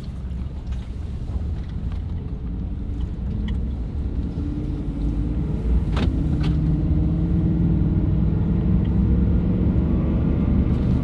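Pickup truck driving, a steady engine and road rumble whose pitch and loudness rise slowly as it picks up speed. A single sharp click sounds about halfway through.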